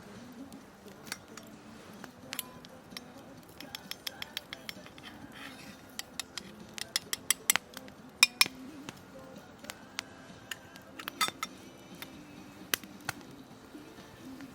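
Irregular sharp clicks and clinks, a few ringing briefly, coming thickest about halfway through, over a faint steady low hum.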